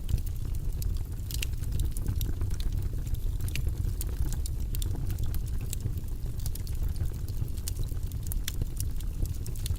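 Wood fire burning in a fireplace, with a steady low rumble and irregular crackles and pops.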